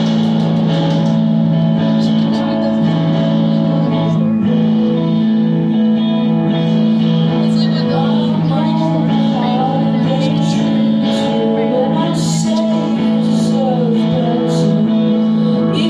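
Live music: a song with guitar and a singing voice.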